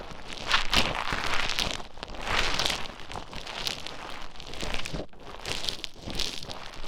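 Play Foam bead modelling compound being mixed and squeezed right against the microphone, giving grainy, crinkling noise that swells and falls unevenly about once a second.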